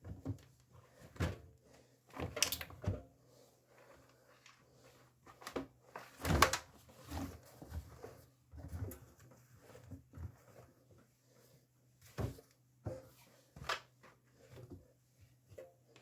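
A series of irregular knocks and clicks, the loudest about six seconds in, as of things being handled and shut, over a faint steady low hum.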